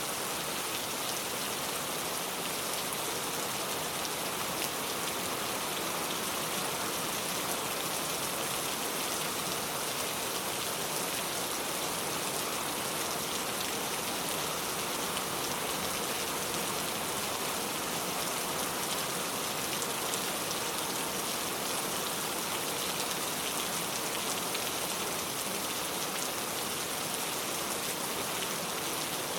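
Steady rainfall, an even hiss of drops hitting surfaces without let-up.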